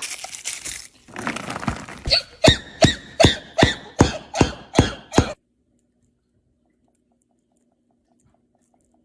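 A person coughing hard in a quick run of about nine coughs, after a second or so of hissing breath, then it stops suddenly about five seconds in.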